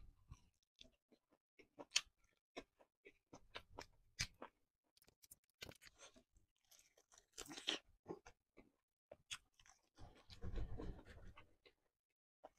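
A person eating a spicy fried chicken drumstick close to the microphone: soft wet chewing with scattered mouth clicks and small crunches, and a longer stretch of chewing about ten seconds in.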